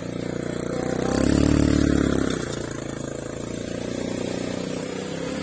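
Motor vehicle engine running, its revs and level rising about a second in and easing back after about two seconds.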